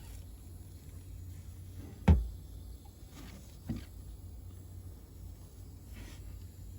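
A sharp metallic knock about two seconds in, with two fainter knocks later, as the thermostatic expansion valve (TXV) and its copper refrigerant tubing on the evaporator coil are handled and moved. A steady low hum runs underneath.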